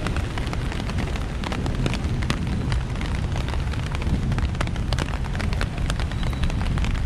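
Steady rain, with many sharp clicks of drops landing close to the microphone over a continuous low rumble.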